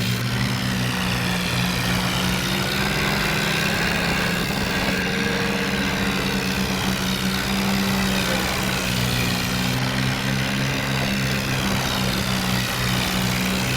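Farmtrac 60 tractor's diesel engine running steadily, its pitch holding level throughout.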